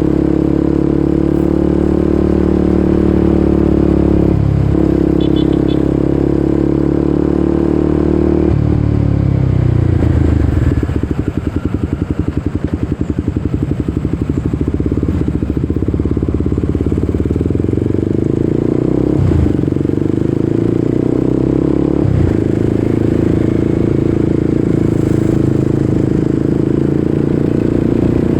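Kawasaki Ninja 250SL single-cylinder engine through an aftermarket KEA Speed exhaust, being ridden. The note holds steady with short breaks at gear changes about 4 and 8 seconds in, drops to a lower, pulsing exhaust sound for several seconds mid-way, then builds again with two more short breaks.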